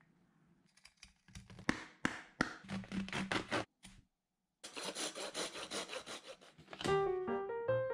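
Knife blades cutting and scraping through material in a string of sharp strokes. After a short silent break, about two seconds of quicker continuous scraping strokes follow. Music with a melody starts near the end.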